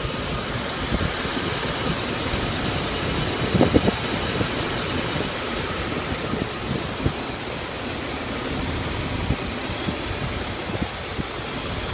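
1996 Dodge Ram 5.9-litre (360) gasoline V8 idling steadily, with a few brief knocks about four seconds in. The seller sums the engine up as having a little exhaust rattle but otherwise running just fine.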